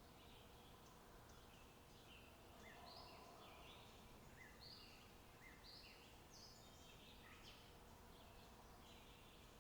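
Faint outdoor ambience: distant small birds calling over and over in short chirps, over a low steady hiss.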